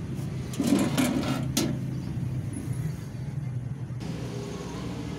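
A few short clicks and rattles of hand tools working on the dryer's wiring about a second in, over a steady low mechanical hum.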